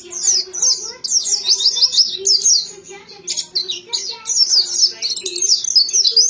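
A pleci (white-eye) singing a fast, continuous twittering song of quick high chirps, run after run with only brief pauses.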